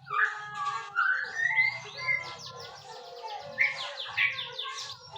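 White-rumped shama (murai batu) singing a varied, continuous song of gliding whistles and quick runs of rapid notes.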